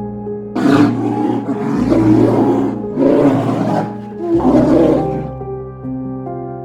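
An animal calling four times in quick succession, each call a rough, noisy sound lasting about a second, over steady background music.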